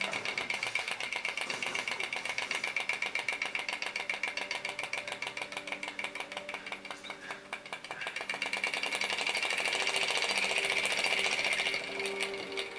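Star Power flame-licker vacuum engine with twin flywheels running, its moving parts making a rapid, even ticking clatter. From about eight seconds in the ticking speeds up and grows louder until it blurs into a buzz, then eases a little near the end.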